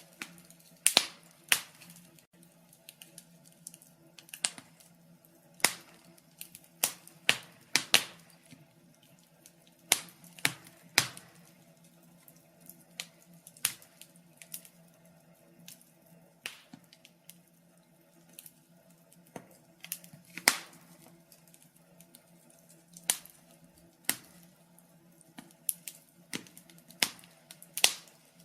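Wood fire crackling: irregular sharp pops and snaps, some loud and some faint, over a quiet low hum.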